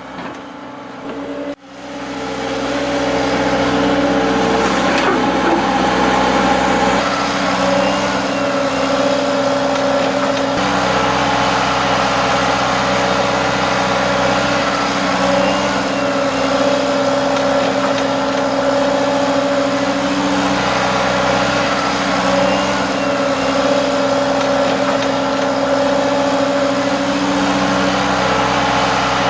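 Excavator's diesel engine running steadily, a constant drone that comes in about two seconds in and holds the same pitch throughout.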